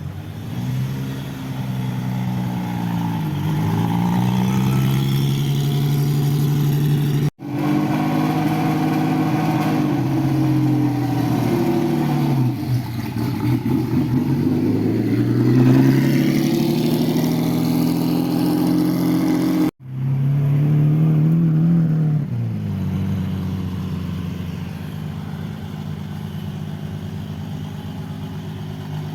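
Lamborghini supercar engines revving and driving past, their pitch rising and falling as cars go by. The sound cuts off abruptly twice, then settles into a steadier, lower engine note near the end.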